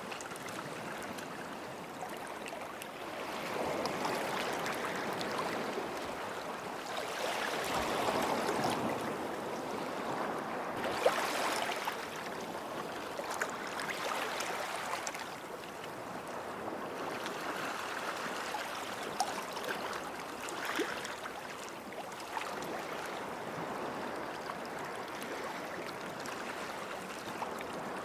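Small sea waves washing onto a sandy beach, each wash swelling and falling away every three to four seconds, with a few light ticks and one brief sharp tick about eleven seconds in.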